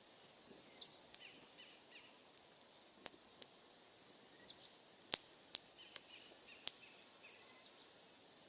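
Wood fire crackling, with several sharp pops, one about three seconds in and a cluster of four between about five and seven seconds.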